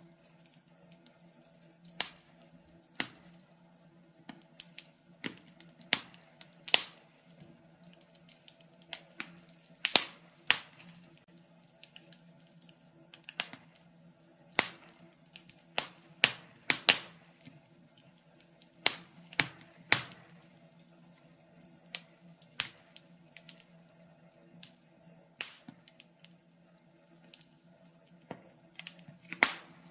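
Wood fire crackling in a fireplace: irregular sharp pops and snaps, one or two a second, some louder than others, over a faint steady hum.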